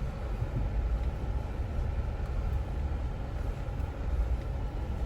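Jeep's engine running with a steady low rumble and no change in pitch.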